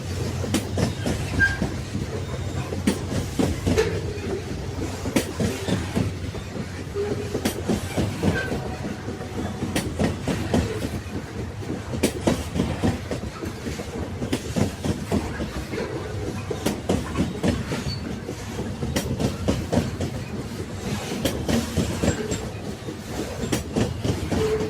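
Train wagons rolling along the track: a steady low rumble with a continual clickety-clack of wheels striking rail joints.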